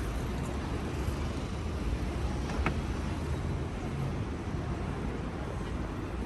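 City street ambience at night: a steady low rumble of traffic and general street noise, with one brief click about two and a half seconds in.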